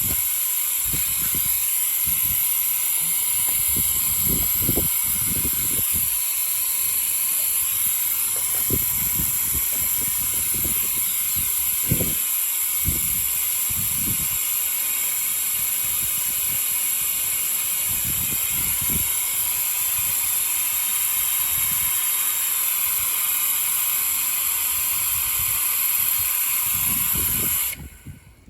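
Suction oil extractor running with a steady hiss as it draws the old engine oil out, with irregular low thumps underneath; the hiss cuts off suddenly near the end.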